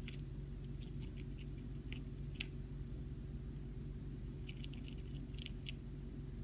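Hamster nibbling cabbage: small crisp crunching clicks in short clusters, near the start and again near the end, over a steady low hum.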